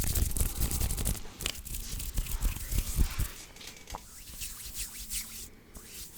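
Bare hands rubbing and brushing together close to the microphone. A dense rustle for about the first second gives way to fainter, slower rubs and a few small sharp clicks.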